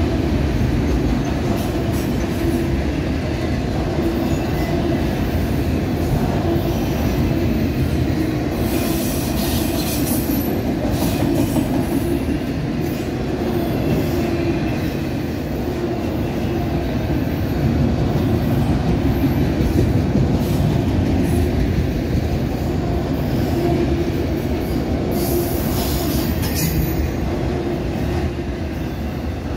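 Autorack freight cars rolling past on the rails: a steady rumble and rattle of wheels and car bodies, with brief high wheel squeals about ten seconds in and again near the end.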